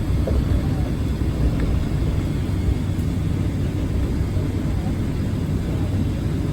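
Steady low rumble of a jet airliner's engines and airflow heard inside the passenger cabin.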